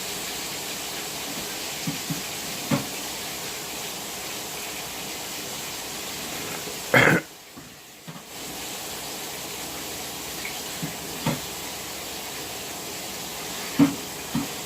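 A steady hiss with a few short kitchen knocks and clatters; the loudest knock comes about seven seconds in, and the hiss drops out for about a second right after it before starting again.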